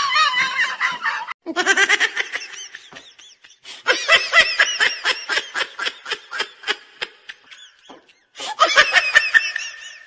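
Laughter in quick repeated ha-ha pulses, cut off abruptly twice, about a second and a half in and near the end.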